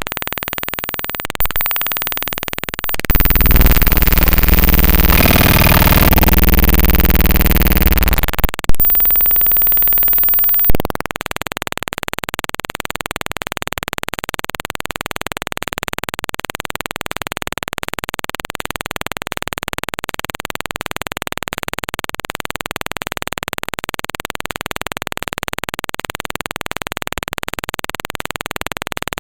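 Raw bytes of the DellTPad.exe executable played back directly as audio: harsh digital data noise. A loud stretch of buzzing, stepped glitch tones lasts about six seconds and cuts off suddenly. From about eleven seconds in, it settles into a steady, even hiss.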